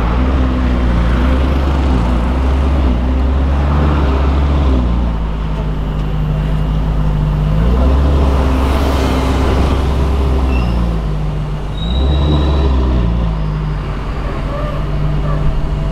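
Ferrari 488's twin-turbo V8 idling loudly at a standstill, its pitch stepping up and down a few times as the revs rise and settle, about 8 and 12 seconds in.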